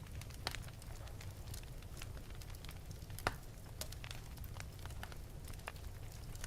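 Wood fire burning in an open fireplace: scattered sharp crackles and pops over a low steady rumble of the flames, with one louder pop about halfway through.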